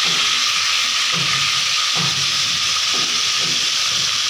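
Marinated chicken tikka pieces sizzling in hot oil in a wok, a loud, steady hiss of frying.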